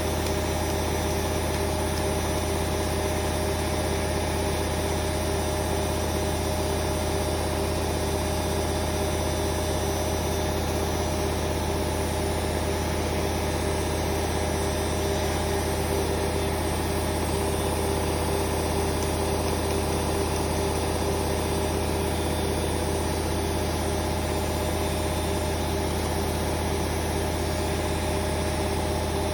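Hoover Vision Dynamic washing machine on a spin cycle, its drum spinning at a steady speed: an even, unchanging hum with a few steady tones above it.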